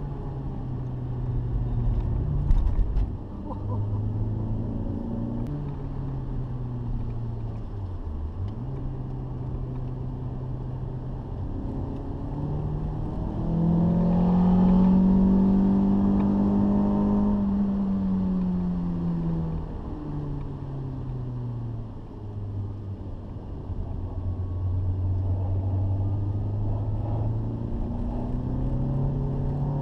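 Renault Clio 182's 2.0-litre four-cylinder engine heard from inside the cabin at track speed, revving up and dropping back through the gears. The longest and highest pull comes about halfway and falls away over several seconds. A couple of sharp knocks come about two seconds in.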